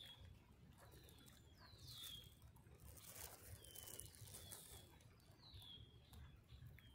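Faint bird calls: short, high chirps that slide downward, repeating every second or so, over a low wind rumble on the microphone and a brief rustle about three seconds in.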